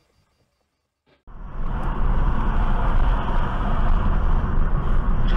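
About a second of silence, then the steady engine and road noise of a moving car cuts in abruptly, as a dashcam records it.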